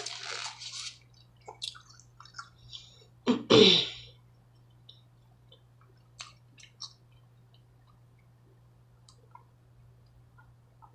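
Close-miked eating sounds: faint wet chewing and mouth clicks from a loaded baked potato with steak tips. A loud breathy rush runs through the first second, and a single loud sudden throat burst comes about three and a half seconds in.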